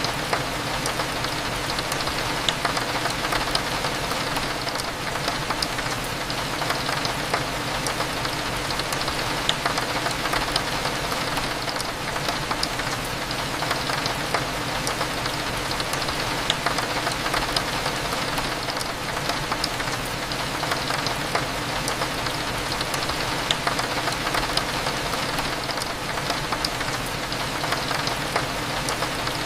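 Steady rain with scattered sharp drips, over a low steady cafe hum.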